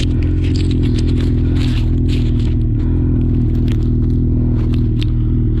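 Lynx Shredder snowmobile engine running at a steady, unchanging speed, with scattered crackling and clicking over it.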